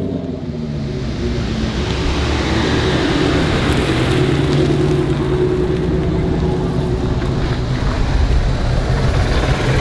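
Ford Mustang V8 engine idling, a steady low exhaust rumble.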